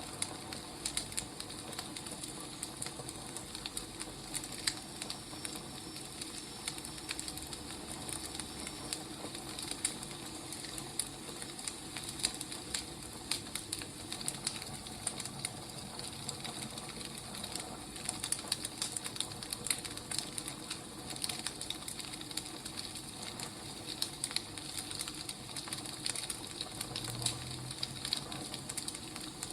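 Burning firewood crackling: a steady hiss with frequent irregular sharp pops and snaps.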